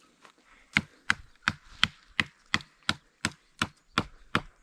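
A small hatchet chopping into the trunk of a fallen tree, with sharp, evenly paced blows about three a second.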